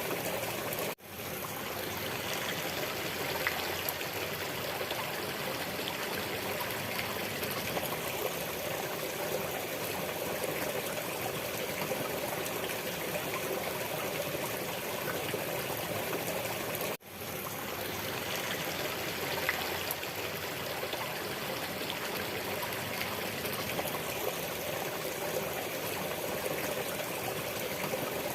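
Steady sound of flowing water, like a stream running over stones. It drops out briefly twice, about a second in and again about seventeen seconds in, each time fading straight back up.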